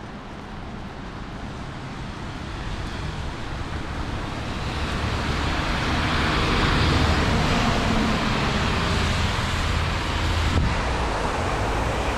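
Heavy downpour, growing louder from a couple of seconds in to a peak in the middle, with a deep rolling rumble of thunder underneath.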